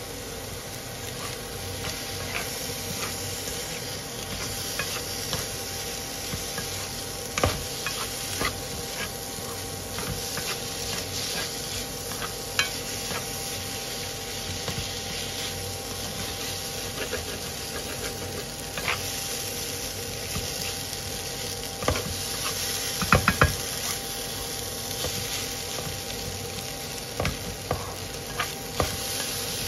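Fried rice sizzling in a granite-coated non-stick wok while a wooden spatula stirs and scrapes through it. Scattered knocks of the spatula against the pan come through, three of them in quick succession a little past the middle.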